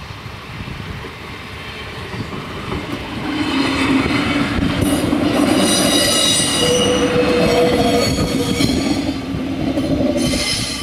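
Siemens Desiro diesel multiple unit passing over a level crossing. Its running noise builds over the first few seconds, stays loud for about six seconds and fades near the end. Steady high-pitched wheel squeal rides over the rumble for several seconds in the middle and again briefly near the end.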